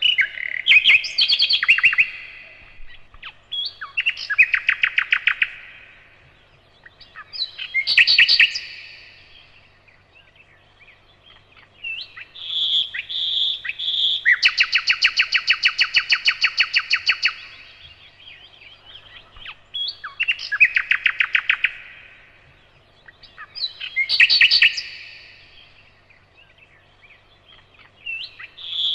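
Nightingale singing a run of separate phrases, each about two seconds long with short pauses between. Many phrases are rapid repeated notes, and a longer fast trill comes about halfway through.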